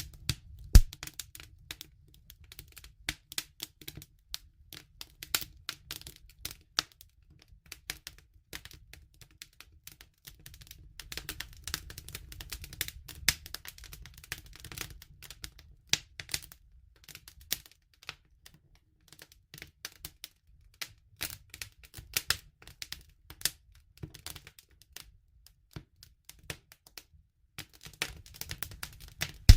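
Wood fire crackling: burning wood pops and snaps in irregular sharp clicks, some in quick clusters, over a low steady rumble, with one loud snap about a second in.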